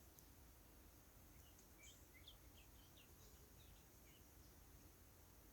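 Near silence with faint bird chirps: a quick string of short, high notes in the middle.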